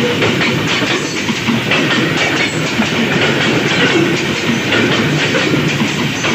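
Freight wagons of a coal train rolling past close by at about 40 km/h, their wheels clattering and knocking over jointed rails in a steady loud rumble.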